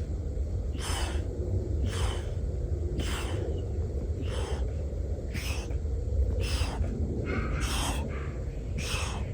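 A man breathing hard in sharp, forceful breaths, about one a second, as he exerts himself through an exercise set. Under it is a steady low rumble of wind on the microphone.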